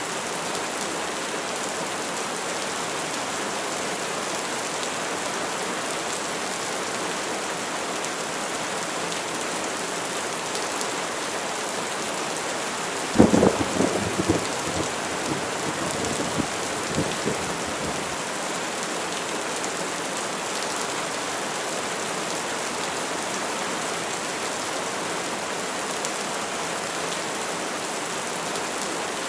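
Steady rain falling. About halfway through, a sudden sharp crack of thunder breaks out, followed by a few seconds of crackling rumbles that die away.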